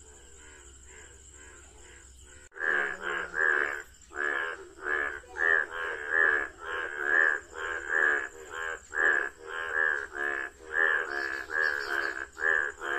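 Frogs calling in chorus: faint at first, then after a sudden cut about two and a half seconds in, loud repeated croaks at about two a second.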